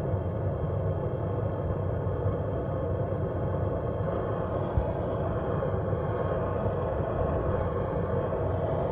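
Handheld gas soldering torch burning steadily, a continuous low rush of flame, as it heats a fluxed copper pipe joint for soldering.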